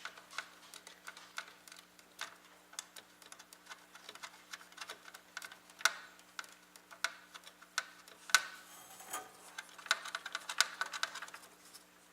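Irregular small clicks and taps of screws and metal mounting parts being handled and screwed in while fitting a liquid CPU cooler's mounting hardware, with a few louder knocks. A faint steady hum lies underneath.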